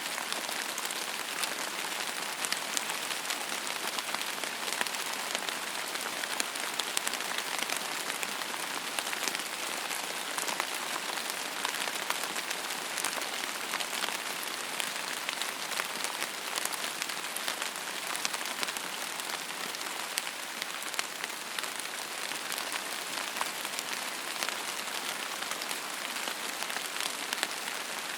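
Steady rain falling on a surface, an even hiss with many fine drop ticks scattered through it.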